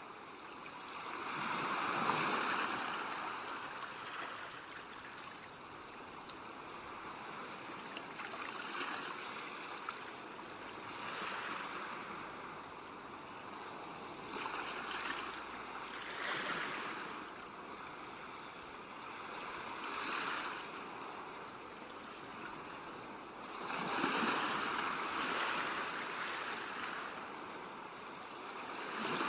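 Ocean waves breaking and washing ashore, a continuous hiss of surf that swells every few seconds, with bigger breakers about two seconds in and again near the end.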